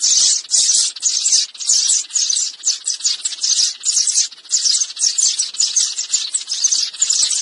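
Sparrows chirping in a dense, unbroken chatter: many rapid high chirps overlapping in quick clusters, a few clusters a second.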